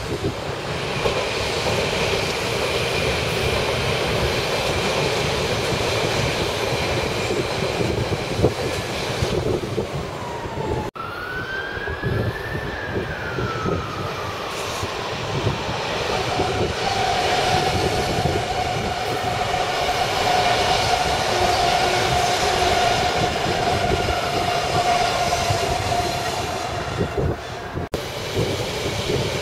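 London Underground S-stock train running along the tracks, with steady wheel-on-rail noise. About eleven seconds in, a whine glides up and then down in pitch, then settles into a steady whine that holds for about ten seconds as the train approaches and passes beneath.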